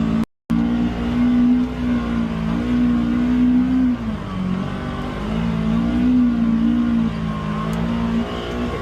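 Polaris Xpedition UTV engine running under load on a trail, revving up and easing off several times as the throttle changes. The sound cuts out for a moment just after the start.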